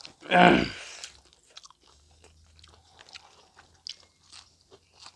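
Close-up eating sounds: chewing and biting into food, with one loud short mouth sound of falling pitch about half a second in, then soft scattered chewing clicks.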